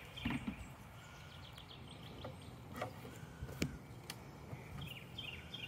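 A bird singing a repeated series of short, quick falling notes, twice, over low outdoor background noise, with a few sharp clicks in the middle.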